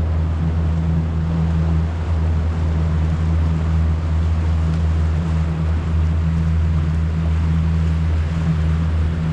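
A steady, loud low engine hum that holds an even pitch throughout, over a hiss of wind and water.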